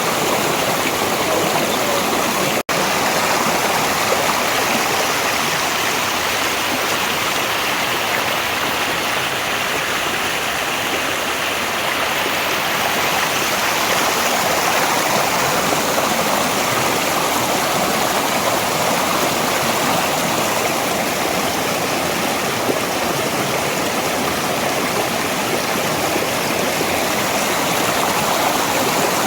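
Mountain valley stream flowing, a steady, even rush of water. The sound cuts out for an instant a little under three seconds in.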